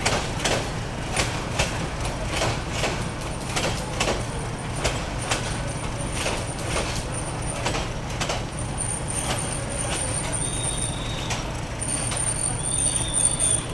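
Train running on the rails: a steady low rumble with regular clacks about twice a second, and a thin high squeal that grows stronger from about eight seconds in.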